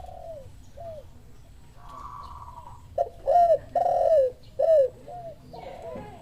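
Doves cooing in a series of short, arched coo notes. The notes are loudest from about three to five seconds in, and a buzzier note comes at about two seconds.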